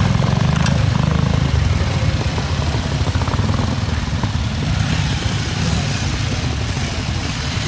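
Pre-unit Triumph parallel-twin trials motorcycle engine running at low revs as the bike is ridden through the section, growing a little fainter as it moves away.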